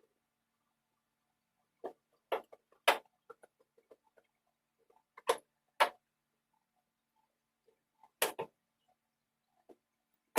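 Scattered short clicks and knocks, about half a dozen louder ones among fainter ticks, with silence between them.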